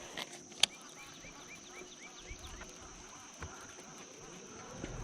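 A bird calling a quick run of about six short, hooked chirps, over a steady high insect drone, with one sharp click just before the chirps.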